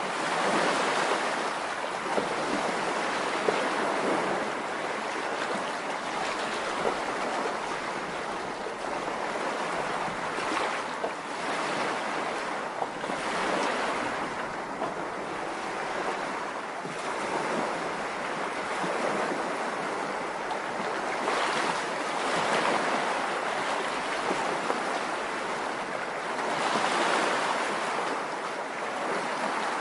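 Ocean surf: waves breaking and washing on a shore, swelling and easing at uneven intervals, with some wind.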